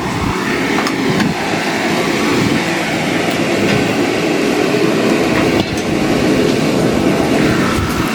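Portable heater blowing hot air, a loud, steady rushing noise with a few faint clicks.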